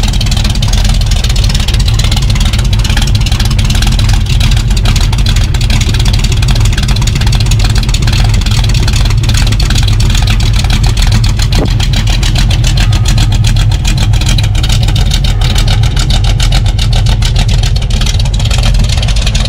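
A 1968 Chevrolet Camaro's 396 big-block V8 idling through its exhaust: a loud, steady low rumble.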